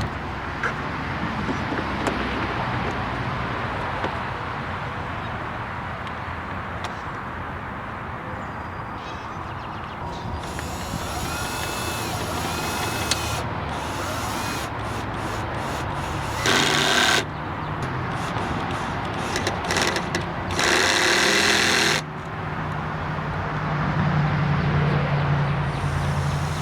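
Cordless drill-driver running in two short bursts driving screws into the bumper-mount pieces, over steady wind and traffic noise.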